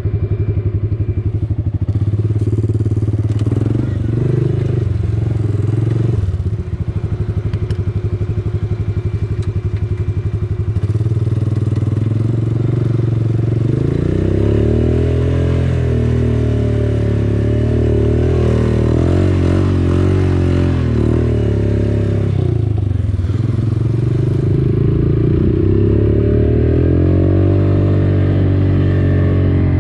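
Quad bike (ATV) engine running, fairly even for the first half, then revving up and down repeatedly from about halfway through.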